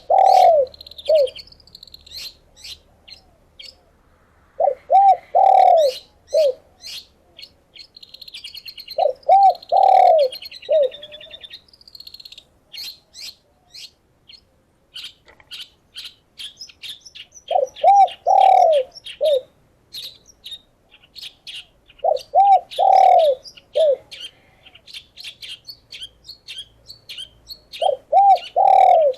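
A dove cooing in short phrases of a few quick notes, six phrases about every five seconds. Under and between them, small birds keep up a continuous high chirping and twittering.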